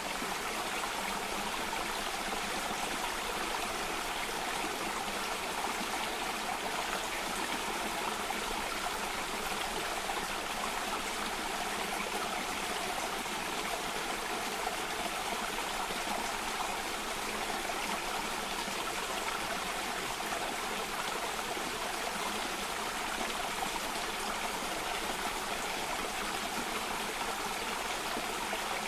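Flowing water of a small cascading stream, a steady rushing and trickling with no break.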